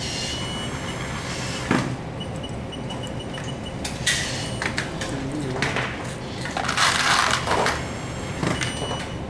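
Small metal parts clinking and clattering as they are handled, several sharp clinks with brief ringing and a short scrape about two-thirds of the way through, over a steady low hum.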